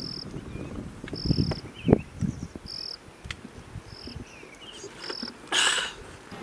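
Cricket chirping: short, steady, high-pitched chirps about once a second, five in all. A few low knocks come in between, and a brief, louder rustle comes near the end.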